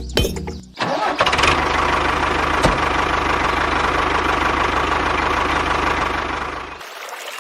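An engine starts up suddenly about a second in and runs steadily for about six seconds, then cuts off near the end; before it there are a few clicks.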